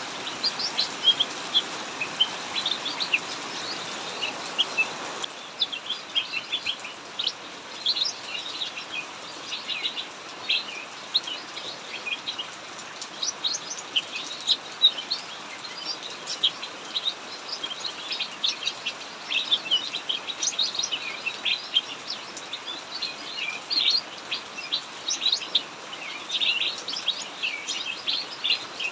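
Small cucak mini songbirds chirping and calling in a rapid, near-continuous chatter over a steady hiss of heavy rain. The rain hiss is louder for the first five seconds or so, then drops abruptly.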